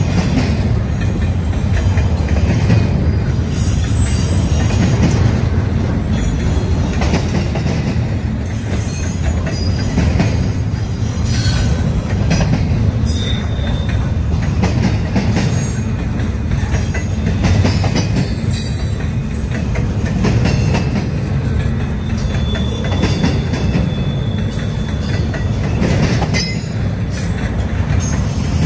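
Double-stack intermodal freight train's container well cars rolling past on the rails: a steady loud low rumble with clicks and clanks from the wheels, and brief high-pitched wheel squeals now and then.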